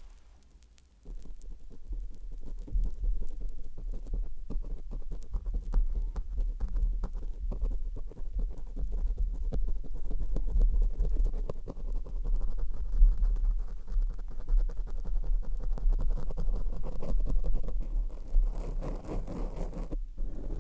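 Close-up ASMR contact sounds right on a microphone: a dense, crackly run of scratching and rubbing with a low rumble underneath, starting after a near-silent first second.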